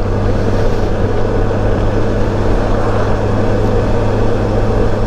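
Honda Gold Wing GL1800 trike's flat-six engine running at a steady drone while riding, under a steady rush of wind and road noise.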